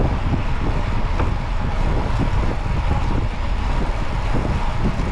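Wind buffeting the microphone, a loud steady low rumble with no clear tones.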